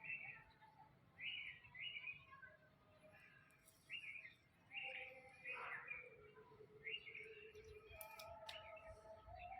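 African grey parrot giving a series of short chirps and squeaks, one sliding down in pitch about halfway through, then a steadier held tone near the end.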